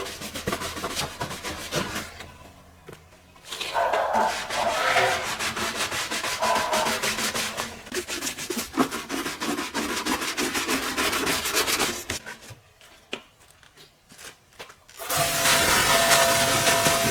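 Scrubbing: rapid rubbing strokes against a surface, in stretches broken by short pauses. Near the end, a louder steady machine noise with a faint hum starts.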